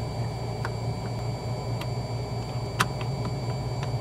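Scattered light clicks and taps, one sharper than the rest a little before three seconds in, from working the old driver airbag loose from its release clips in the steering wheel, over a steady low hum.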